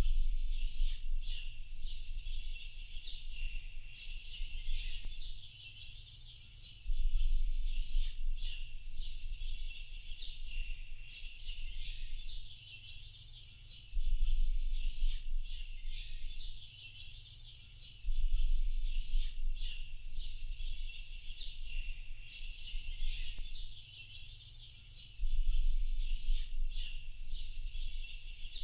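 Dense chorus of many small birds chirping and twittering without pause. A deep low rumble comes in and drops out every several seconds.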